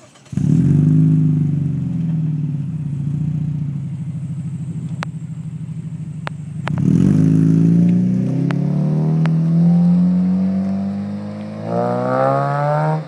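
Mazda 6 engine running through a muffler-deleted exhaust: it starts up about half a second in and settles to an idle. A few seconds later it is revved and held, rising slowly, then drops back, and near the end it is given a second, sharper rev.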